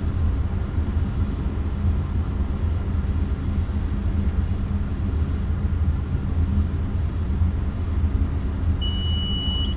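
Steady cockpit noise of a Cessna Citation V business jet on final approach: a low drone of airflow and engines. A short high beep sounds for about a second near the end.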